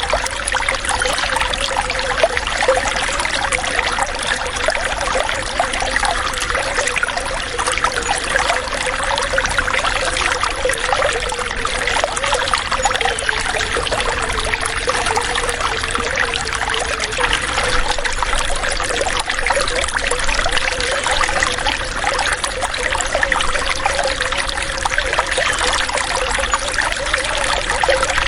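Running water trickling and splashing steadily, like a small stream or a water flow, with a constant gurgling hiss and no change throughout.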